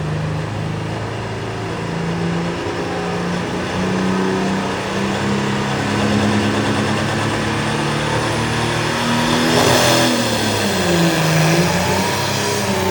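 Pulling tractor's engine running hard, its pitch climbing slowly. About ten seconds in there is a rush of noise and the engine note drops and swings up and down.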